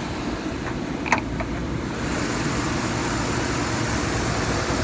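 2012 Chevrolet Avalanche's 5.3-litre V8 idling steadily, with a sharp click about a second in as the hood is released. The engine sound is a little louder from about two seconds in, once the hood is up.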